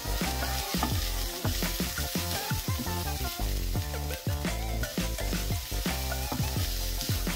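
Diced onion and garlic sizzling in oil in a skillet as a wooden spatula stirs them, with background music with a steady beat and bass over it.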